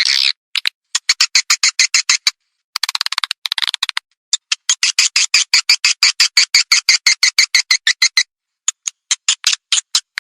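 Edible-nest swiftlet call recording of the kind played to lure swiftlets into a nest house: rapid trains of sharp clicks, about nine a second, broken by brief pauses, with a short burst of twittering about three seconds in.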